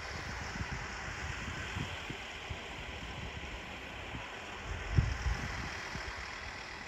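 Transport for Wales Class 230 train, a converted ex-London Underground D78 unit, running past with a steady train noise. Wind buffets the microphone throughout, with a stronger gust about five seconds in.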